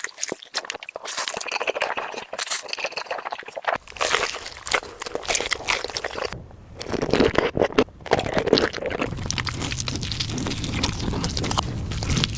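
Close-miked eating of a spicy chicken leg: crunching, crackling and wet chewing as pieces are bitten off and chewed, with a low rumble underneath in the second half.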